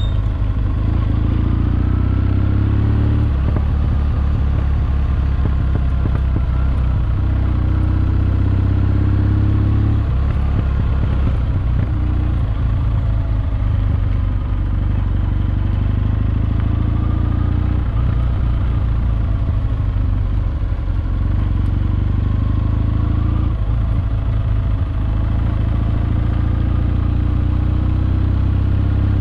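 Kawasaki W650 air-cooled parallel-twin motorcycle engine, fitted with Wyvern Classic mufflers, running steadily under way, its note shifting a few times with the throttle.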